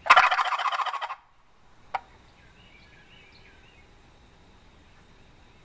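A gobble box turkey call shaken close by, giving one loud, rapid rattling gobble of about a second at the start. A single sharp click follows about two seconds in, and faint songbirds chirp in the background.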